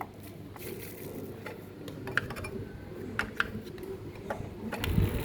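Scattered sharp clicks and taps over a low background hum, the sharpest about two and three seconds in; a louder low rumble sets in near the end.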